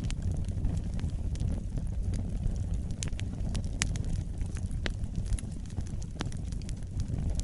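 Wood fire burning in a fireplace: a steady low rumble of flames with frequent sharp crackles and pops, a few of them louder than the rest.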